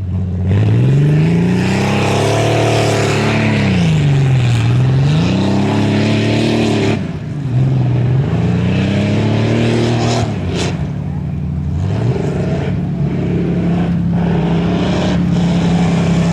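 Modified 4x4 truck engine revving hard, its pitch climbing and dropping several times as the throttle is worked, then holding a steadier high note for the last few seconds.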